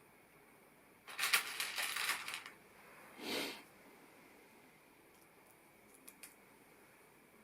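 Small plastic LEGO pieces clattering for a second or so as they are sifted through, followed by a short swish and, later, a couple of faint clicks.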